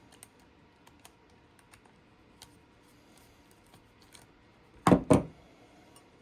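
Faint small clicks and ticks of a screw being worked out and small hardware handled. About five seconds in come two heavy thumps in quick succession, of parts being set down on a table.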